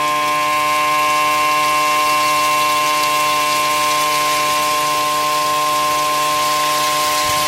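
A steady mechanical hum: several constant tones held over a hiss, running without change.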